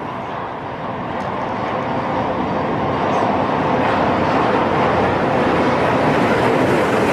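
Rushing noise of a fast train in motion, starting abruptly and slowly growing louder.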